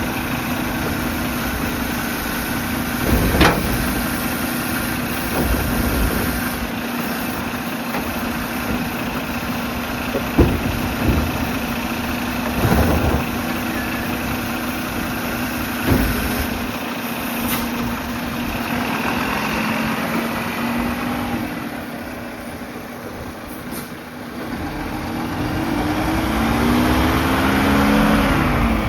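Mack LR garbage truck's diesel engine idling steadily, with four sharp bangs a few seconds apart. Near the end the engine revs up, rising in pitch.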